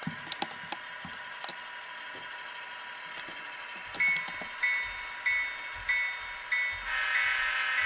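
Model locomotive sound decoder (SoundTraxx Tsunami) playing a non-turbo EMD 645 diesel idling through the model's small speaker, with a few clicks at the start. About four seconds in the locomotive bell starts ringing steadily, about one and a half strikes a second, and near the end a louder horn-like tone joins it.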